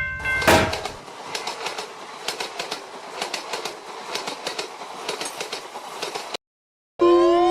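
Train passing, its wheels clicking over rail joints in a quick, uneven clickety-clack over a steady rumble, cutting off abruptly about six seconds in. Half a second later a loud siren-like tone starts, rising over and over in quick sweeps.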